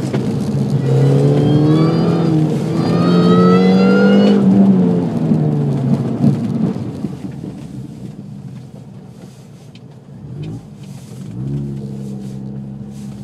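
2005 MINI Cooper S's supercharged four-cylinder engine, heard from inside the car. It revs up hard over the first four seconds or so, with a brief dip near two seconds, then falls off as the car slows. It quietens to a low run, then rises again briefly near the end.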